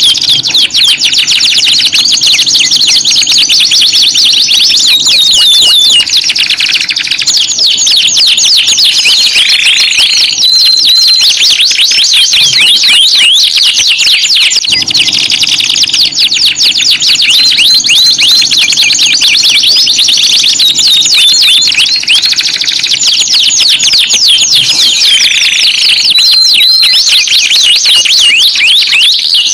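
Domestic canary song: continuous fast rolling trills and chirps. A faint steady low hum runs beneath it for part of the time.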